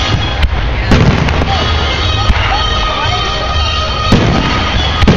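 Fireworks show with aerial shells going off: a string of sharp bangs at irregular intervals, several close together in the first second and a half and more near the end.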